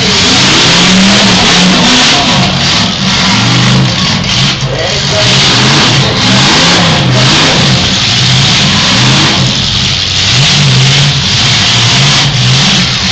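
Demolition derby cars' engines revving up and down again and again as the cars push and ram each other, over a steady dense wash of engine noise.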